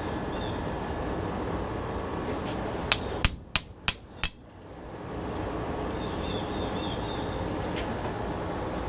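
Hammer striking metal: five sharp blows, about three a second, each with a brief ringing tone, over a steady background hiss.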